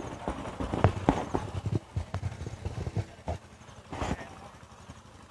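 A series of irregular light knocks and clicks, thickest in the first two seconds, with a short muffled knock about four seconds in.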